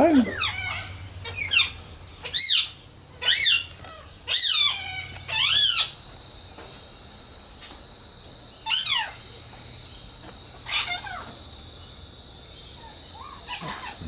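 Birds calling: a run of short, harsh calls, each a quick arched or falling sweep. Seven come close together in the first six seconds, then two more spaced a couple of seconds apart. From about six seconds in, a faint steady high insect drone runs beneath them.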